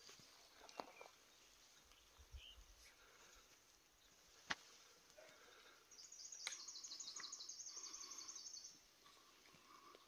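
Quiet forest ambience; a small bird gives a high, rapid trill lasting about two and a half seconds in the second half, and a single sharp click sounds near the middle.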